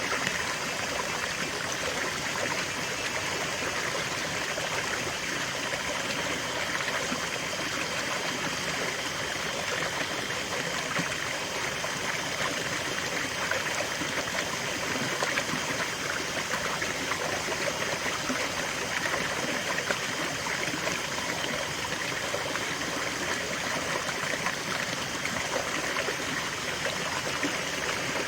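A stream or small river flowing steadily over rocks, a continuous rushing and babbling of water with no pauses.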